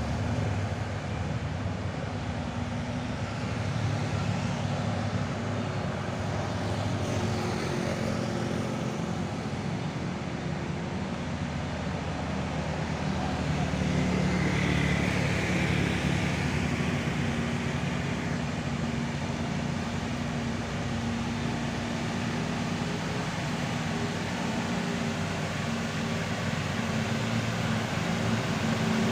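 Heavy truck diesel engines running steadily as the trucks climb a steep hill, with passing road traffic. The drone swells a little about halfway through.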